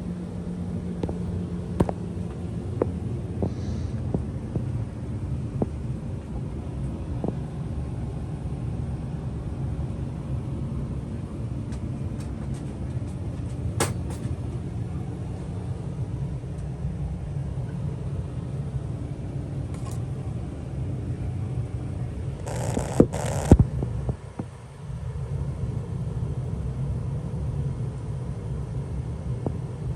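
1991 Bahama Deluxe Hugger ceiling fan running, heard as a steady low rumble with air moving over the microphone and occasional light clicks. Two loud short knocks come about 23 seconds in, and the rumble drops briefly just after.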